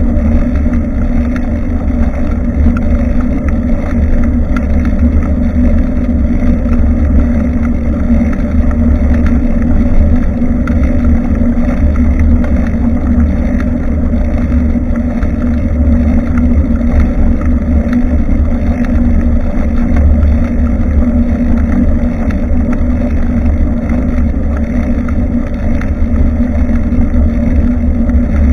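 Steady low rumble of wind and road vibration on a bicycle-mounted action camera's microphone while cycling.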